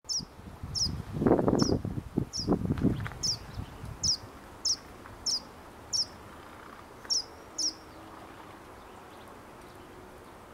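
A verdin calling: about eleven short, high, clear notes, each sliding down in pitch, repeated less than a second apart and stopping about three-quarters of the way in. A low rumble runs under the first few seconds.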